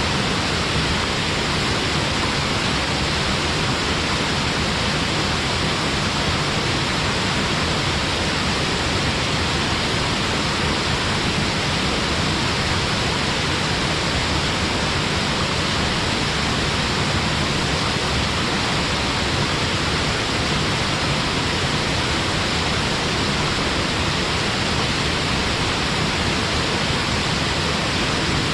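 Waterfall pouring into a mountain stream: a steady, unbroken rush of falling water.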